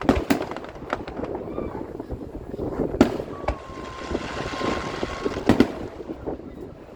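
Fireworks bursting overhead: a string of sharp bangs, the loudest about three seconds in and a close double bang near five and a half seconds, over a low rumbling background. Between them a steady whistle-like tone with a hiss runs for about two seconds.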